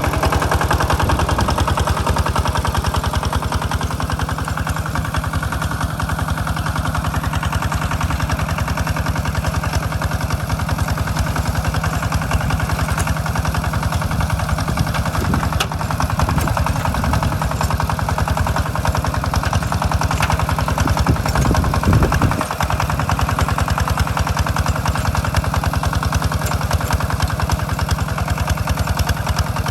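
Tractor engine running steadily while plowing a rice paddy, with a fast, even chugging.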